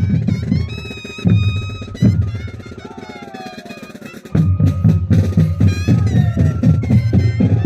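Moseñada band music: mohoseño cane flutes playing a held, gliding melody over a steady drum beat. The drums drop back for about two seconds in the middle, then come crashing back in about four seconds in.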